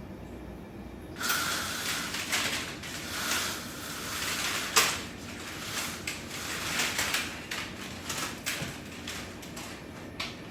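Household handling sounds: irregular rustling and scraping that start about a second in, with a sharp click or knock near the middle and a few scattered clicks after.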